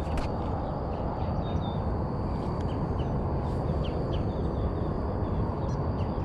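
Outdoor ambience: a steady low rushing noise with a thin, steady high whine, and small birds chirping now and then.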